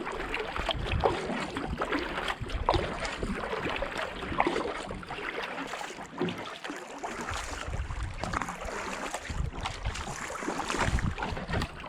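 Kayak paddle blades dipping and splashing in canal water, with water running along the hull and wind buffeting the microphone in gusts.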